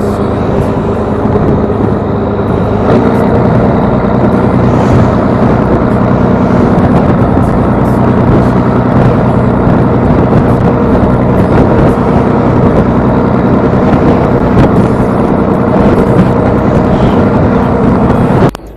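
Fishing boat's engine running under way, loud and steady; it picks up in pitch and level about three seconds in, then cuts off suddenly near the end.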